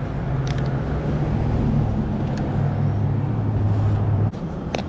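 A low, steady engine hum, as from a motor vehicle running close by, that cuts off suddenly about four seconds in.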